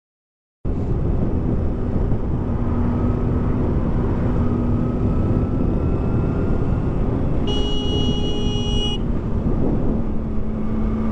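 Motorcycle on the move, the 2007 Kawasaki ZX6R's inline-four running steadily under heavy wind rush, starting suddenly after silence about half a second in. A vehicle horn sounds for about a second and a half after the middle.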